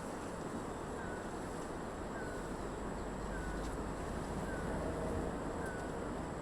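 Rural outdoor ambience: a steady rush of wind noise, with a faint short chirp repeating about once every second and a bit, and a thin, steady high-pitched whine.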